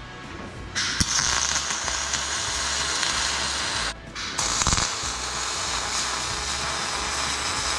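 Welding arc on an aluminum frame, a steady crackling hiss that breaks off briefly about four seconds in and then starts again.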